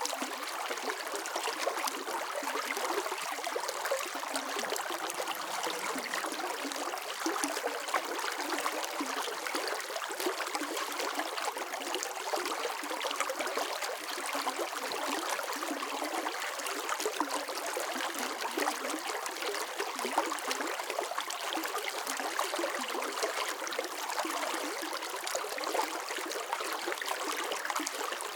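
Running water of a stream flowing and trickling, a steady splashing rush without change.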